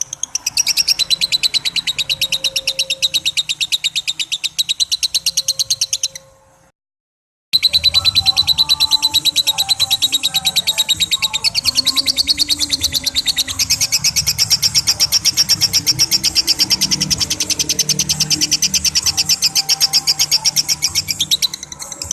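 Lovebird giving a long 'ngekek' chatter: a fast, continuous run of sharp, high, repeated notes. It breaks off for about a second of silence after six seconds, then carries on just as fast.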